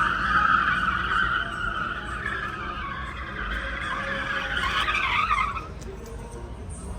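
Car tyres squealing on pavement as a car spins its wheels while trying to do donuts. The steady screech fades and stops about five and a half seconds in.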